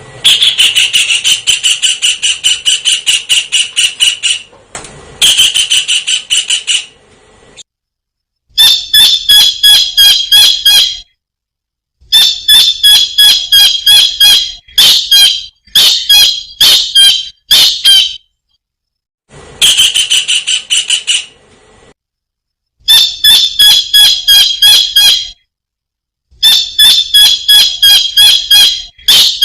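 Kingfisher calling: rapid series of sharp, high calls in bursts of a few seconds, separated by short pauses.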